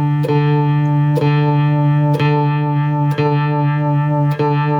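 Electric guitar through a Danelectro Cool Cat Vibe pedal and an Epiphone Valve Junior valve amp, one low note plucked about once a second. The vibrato wobble deepens as the pedal's intensity knob is turned up.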